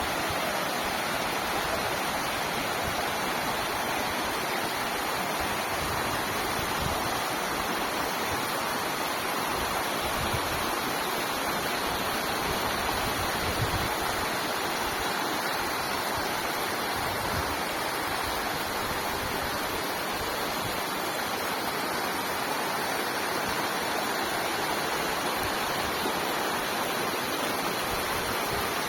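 Waterfall: steady rush of falling water.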